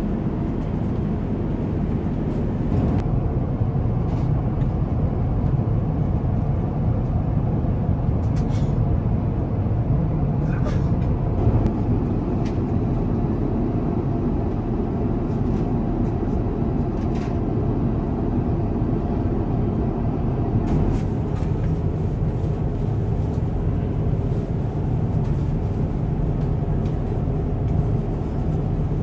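Steady low rumble of airliner cabin noise in cruise, the airflow and engine drone of an Airbus A350-1000, with a few faint clicks.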